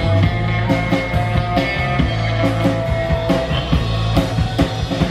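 Live rock band playing an instrumental stretch: electric guitar holding sustained notes over bass and drum kit.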